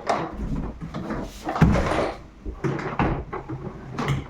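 Knocks, scrapes and rustling as a shop vacuum and its box or plastic parts are handled, the heaviest knock about a second and a half in.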